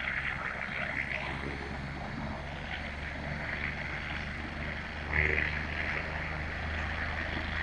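Air-ambulance helicopter running on the ground with its rotor turning, a steady engine and rotor hum that swells briefly about five seconds in.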